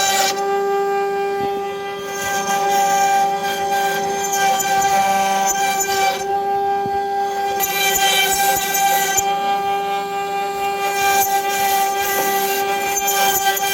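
CNC router spindle running with a steady high whine, while the cutting bit carves wood with a rasping hiss that comes and goes in stretches of a couple of seconds.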